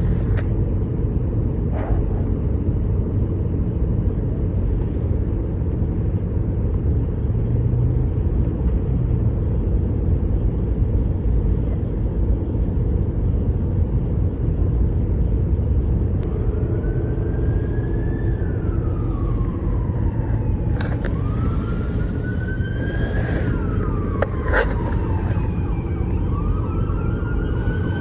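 Steady traffic and engine rumble, then about halfway through an emergency vehicle siren begins wailing, rising and falling slowly in cycles of about four seconds.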